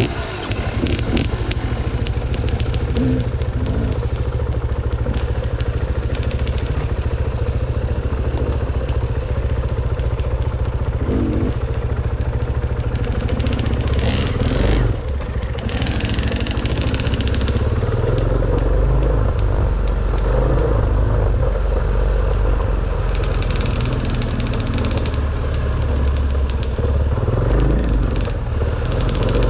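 Dirt bike engine running steadily while the bike is ridden on a trail, with frequent rattles and knocks from the rough ground. The engine eases off briefly about halfway through.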